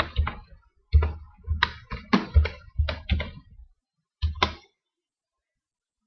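Computer keyboard keys being typed in a quick, irregular run of about a dozen keystrokes, stopping after about four and a half seconds.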